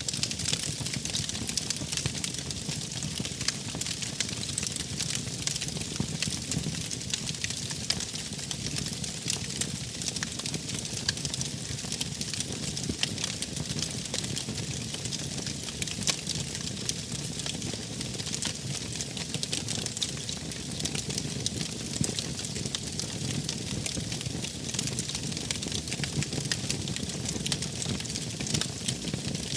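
Wood fire burning steadily, a constant rushing hiss dotted with many small, sharp crackles and pops from the burning wood.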